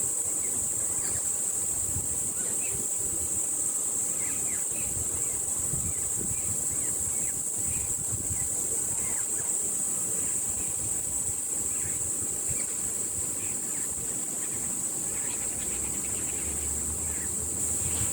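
Birds singing in short, scattered chirps over a steady high-pitched insect buzz, with wind rumbling on the microphone.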